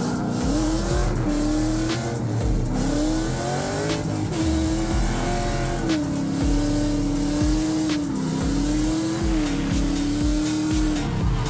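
Drift car engine revving up and down again and again as the car slides, with tyre squeal.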